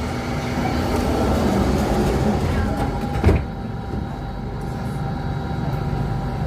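Steady hum inside an Alstom Metropolis C830 metro train car halted at a station. About three seconds in there is a single sharp thud, typical of the doors shutting. After it the sound turns duller, with the high hiss cut off.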